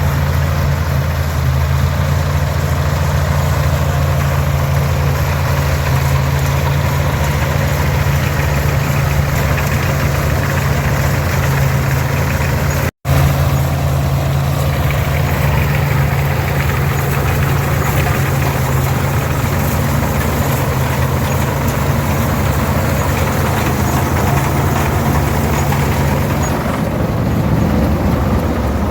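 Farmall 460 diesel tractor's six-cylinder D-282 engine running steadily under load while it pulls and powers an International 82 pull-type combine harvesting oats, with the combine's machinery running along with it. The sound cuts out for an instant about 13 seconds in.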